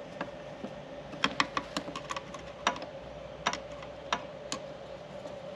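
Irregular sharp clicks and taps of hard plastic parts being handled as a tractor's switch and wiring connector are worked into place, about a dozen over a few seconds, with a faint steady hum underneath.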